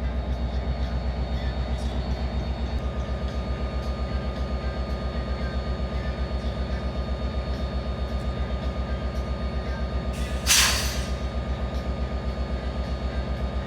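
A car engine idling close by with a steady, rapidly pulsing low rumble, and a short loud hiss about ten and a half seconds in.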